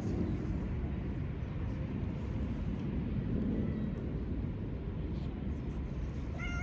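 Steady low outdoor rumble, with a short, high-pitched call near the end.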